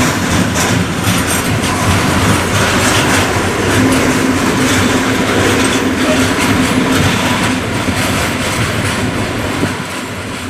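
Freight train wagons rolling past, wheels clicking over the rail joints, with a steady low tone for a few seconds in the middle; the rolling noise eases slightly near the end.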